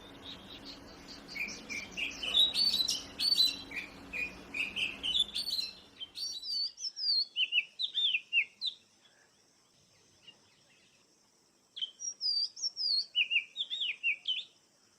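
Oriental magpie-robin singing a fast run of varied whistled notes, many sliding downward, then falling silent for about three seconds before a second burst near the end. A low hum and background noise lie under the first six seconds and cut off abruptly.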